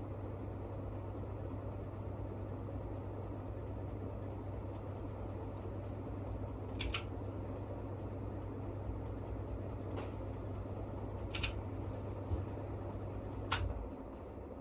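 Niko 42-inch ceiling fan running with a steady low motor hum and air noise, broken by three sharp clicks. The hum stops right after the last click, near the end.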